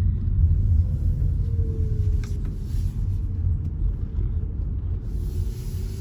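Car cabin noise while driving slowly: a steady low rumble of tyres and engine, with a faint hum that dips slightly in pitch.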